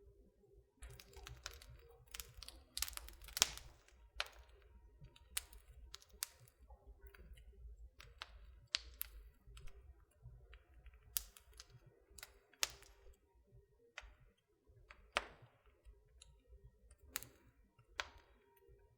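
Wood fire in a fireplace crackling: irregular sharp pops and snaps, some much louder than others, over a soft low rumble.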